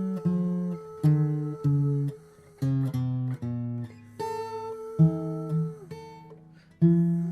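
Acoustic guitar playing a slow run of chords, the chord changing every second or so with short gaps between, as a song's chord changes are tried out.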